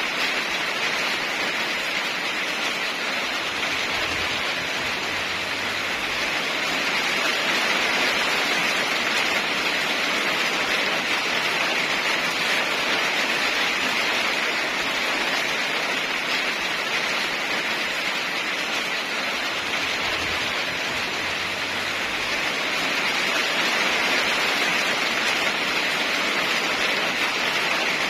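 Heavy rain falling steadily, an even hiss with no single drops standing out.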